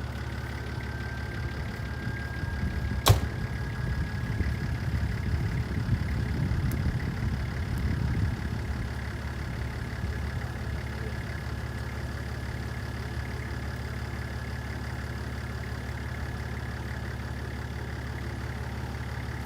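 Ute engine idling steadily, with one sharp knock about three seconds in and a rougher, louder rumble for several seconds after it.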